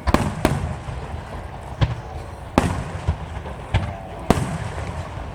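Aerial firework shells bursting overhead: about six sharp booms at uneven spacing, each trailing off in a low rumbling echo.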